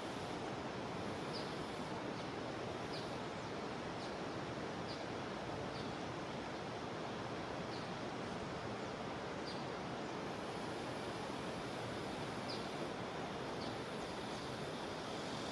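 Steady rushing of a jungle river, with short high chirps from small creatures every second or so.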